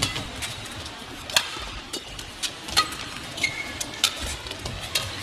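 Badminton rally: a shuttlecock is struck back and forth by rackets, with sharp hits a little over a second apart and brief shoe squeaks on the court floor, over the hum of the arena crowd.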